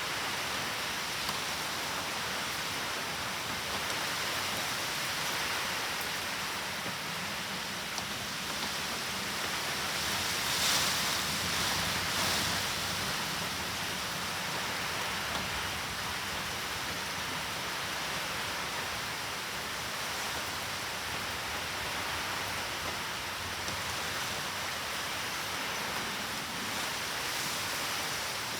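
Steady heavy typhoon rain, swelling briefly louder about ten seconds in.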